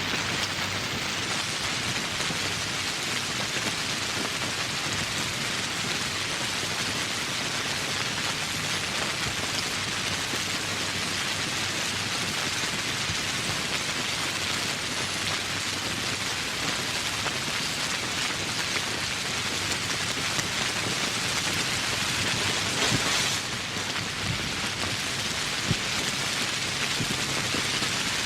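Steady rain falling, a dense even hiss. About 23 seconds in it briefly swells, then the highest part of the hiss thins a little.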